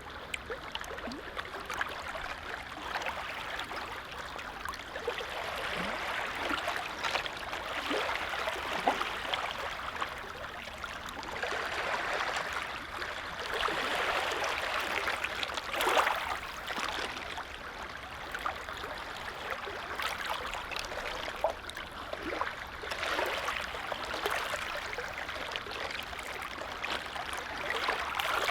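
Small lake waves lapping: a steady wash of water that swells and eases every few seconds, with little splashes.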